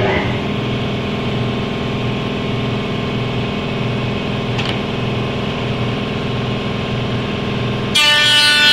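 Kaban CE3060 impost (mullion) machine starting up abruptly and running with a steady motor hum. About eight seconds in, a louder, shrill whine made of many tones sets in.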